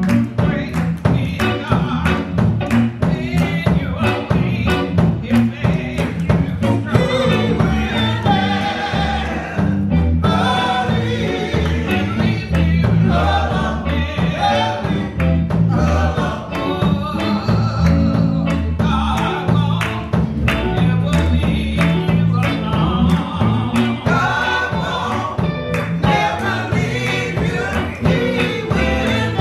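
Gospel choir singing a praise song over a band, with a steady, busy drum beat and bass.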